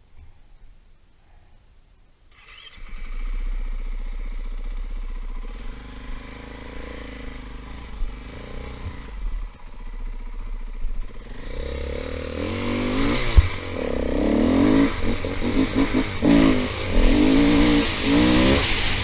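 Dirt bike engine starting about three seconds in and running at a steady idle, then revving up and down repeatedly and getting louder from about halfway through as the bike pulls away.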